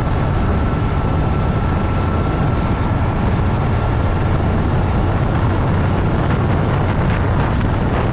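Motorcycle running steadily at road speed, with wind rushing over the microphone.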